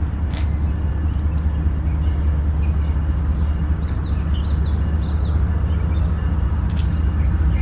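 Intermodal freight train rumbling steadily as it pulls out, its diesel locomotives giving a low, even drone. Around the middle a bird gives a quick run of short, high, falling chirps.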